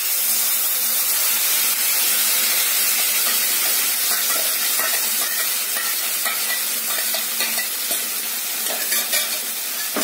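Ground masala paste sizzling loudly as it hits hot oil with bay leaves in a kadai, the hiss starting suddenly and holding steady. A few light clicks from a spoon scraping the paste out of a steel bowl come midway and near the end.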